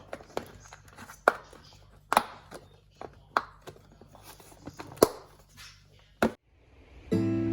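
Irregular sharp knocks and taps, a dozen or so, over a low steady hum; instrumental music comes in near the end.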